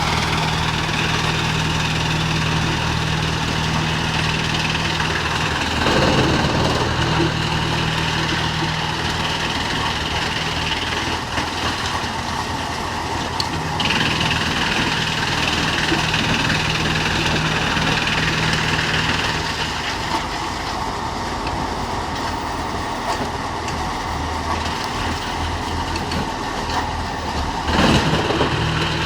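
Disc wood chipper running steadily with a constant machine hum, with two brief louder surges, about six seconds in and near the end.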